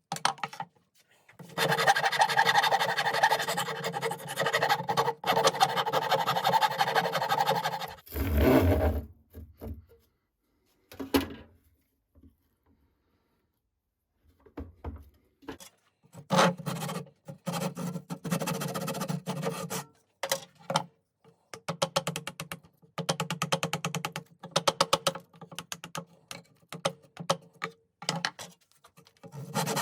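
Scraping strokes of a hand tool working on wood or metal, in runs of several seconds broken by pauses, with a gap of near silence in the middle.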